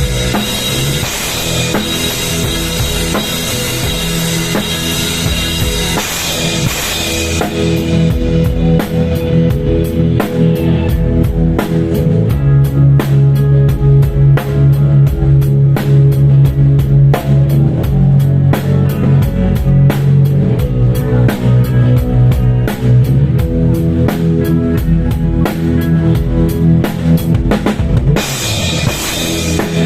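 Loud music led by a drum kit and bass, played through a large PA sound system at a sound check. About seven seconds in, the treble drops away, leaving heavy bass and sharp drum hits; the full sound returns near the end.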